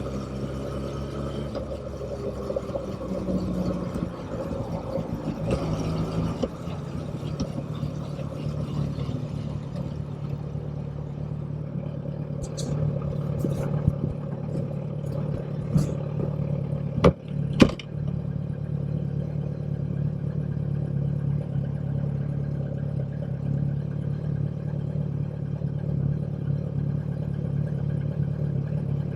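Motorcycle engine winding down, its pitch falling over the first several seconds, then running at a steady low idle. A few sharp clicks come a little past the middle, the loudest two close together.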